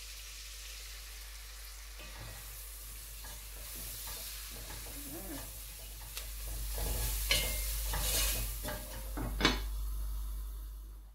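Chopped onions and dried crayfish sizzling in hot olive oil while a wooden spoon stirs them in the pot. The sizzling grows louder from about six seconds in, with a couple of sharp knocks against the pot near the end.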